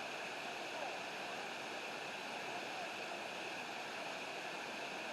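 Steady rush of river water and a waterfall, an even hiss with no breaks.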